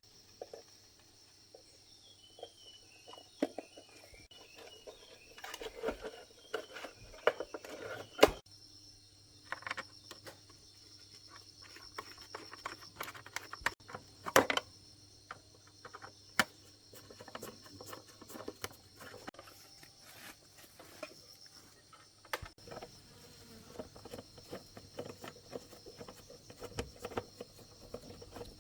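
Scattered light clicks and knocks of hand tools and metal parts being handled, irregular and sparse, over a steady faint high-pitched hum.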